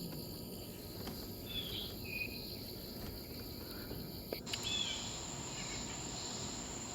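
Outdoor insect chorus: a steady high-pitched drone that shifts about four seconds in, with a few short bird chirps over it.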